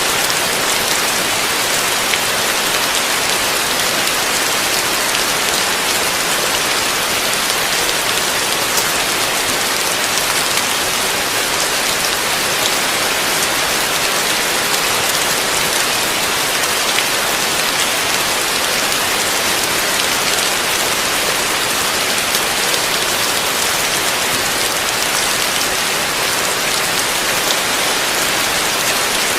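Heavy rain falling steadily on a surface, a dense even hiss of drops with no let-up.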